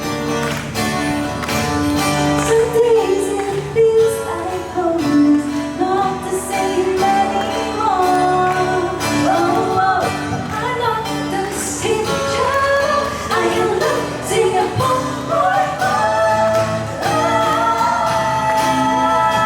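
A pop song performed live by a band: a sung melody over guitar and a steady beat.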